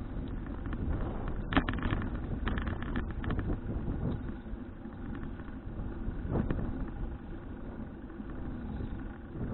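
Bicycle ride noise heard from a bike-mounted action camera: a steady low rumble of wind and tyres on the road, with a few sharp rattles or knocks from the bike over bumps, about a second and a half in, around three seconds in, and again past six seconds.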